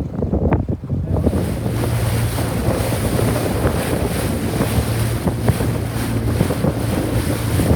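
Wind buffeting the microphone on a moving boat, with water rushing past and a steady low hum from the boat's motor. A few knocks come in the first second, and the rushing wind grows louder about a second in.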